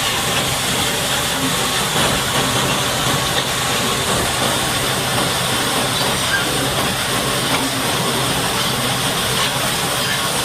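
High-pressure water spray hissing steadily as it blasts mud off a bulldozer, over a steady low engine hum.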